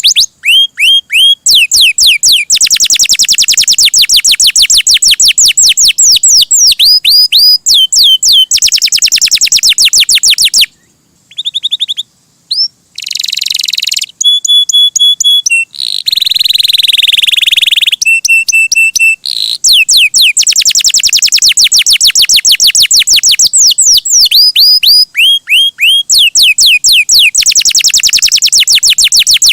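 Domestic canary singing loudly: long, fast trills of repeated high notes that sweep downward, broken by a short pause about eleven seconds in, then a few steady whistled notes and a harsh buzzy phrase before the rapid trills resume.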